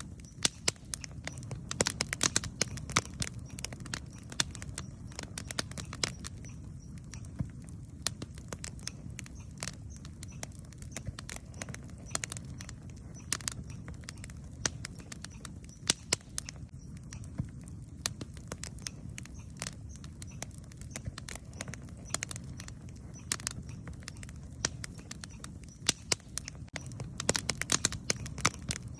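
Wood campfire burning, crackling and popping with irregular sharp snaps over a low, steady rumble of the flames.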